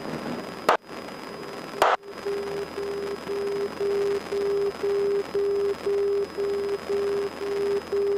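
Two sharp clicks, then an electronic beep tone that pulses on and off about twice a second, starting about two seconds in, heard on the cockpit audio of a light trainer aircraft just after takeoff.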